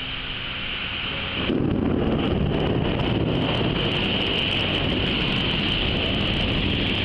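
Thunderstorm: rain hissing steadily, with thunder breaking in sharply about one and a half seconds in and rumbling on.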